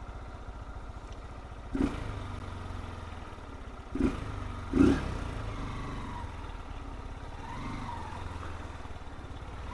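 Single-cylinder 160 cc motorcycle engine idling with a steady low pulse, blipped briefly three times: about two, four and five seconds in.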